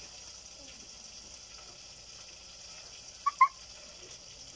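Onions frying in oil in a pot over a wood fire, a faint steady sizzling hiss. A little over three seconds in come two short pitched calls, close together, louder than the frying.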